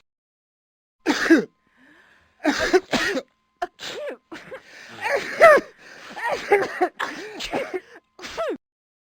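A person sneezing and coughing in a rapid run of short bursts, starting about a second in and going on until shortly before the end.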